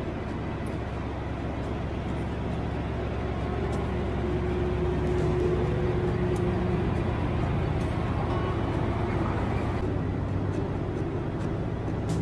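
Diesel train engine running with a steady low rumble that grows slightly louder about four seconds in.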